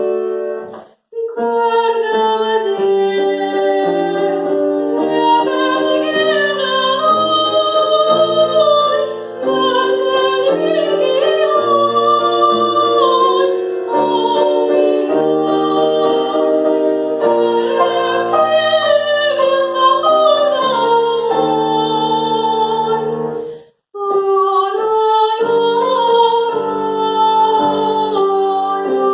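A woman singing in a classical operatic style, with vibrato on long held notes, over piano accompaniment. The sound drops out briefly twice, about a second in and near the end.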